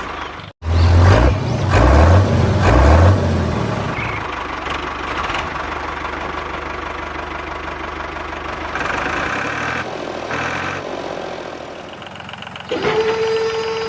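A mini tractor's engine running, with heavy low pulses in the first few seconds. A steady whine sets in near the end.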